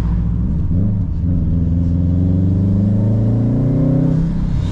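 Turbocharged car engine accelerating hard in gear, its pitch rising steadily for about three seconds, then easing off near the end as the driver lets off.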